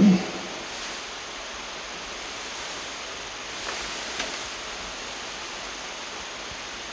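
Steady hiss of light rain drizzling down, with a brief low thump at the very start and a couple of faint ticks about four seconds in.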